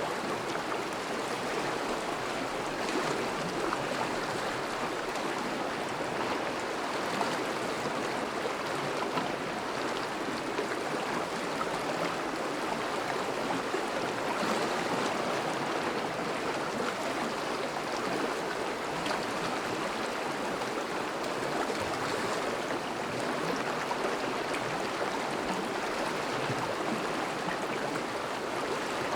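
A river flowing steadily over shallows, a constant rushing and babbling of water.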